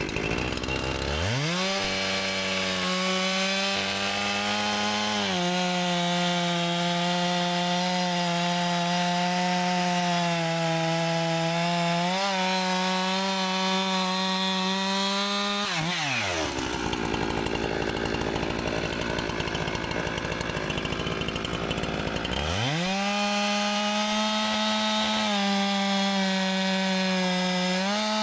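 Husqvarna 390 XP two-stroke chainsaw revved to full throttle and cutting through a poplar log, its pitch sagging slightly under load. About 16 seconds in it drops off throttle, then revs back up to full speed about six seconds later for the next cut.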